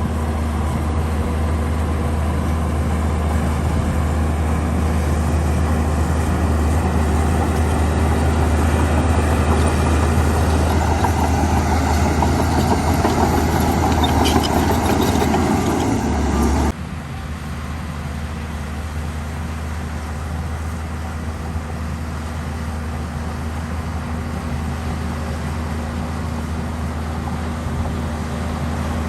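Heavy diesel engine of earthmoving machinery running, a strong low steady hum. It grows louder and busier from about ten seconds in, then drops abruptly just past halfway to a quieter, steady engine sound.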